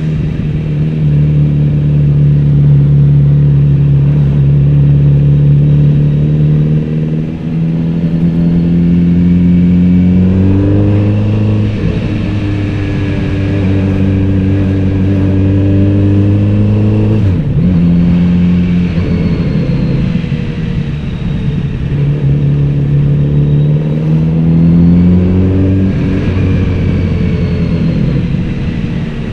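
Kawasaki Z900RS's inline-four engine running under a rider on the road, holding steady revs for long stretches. Three times, about a third of the way in, around the middle and near the end, the revs climb and then drop back sharply.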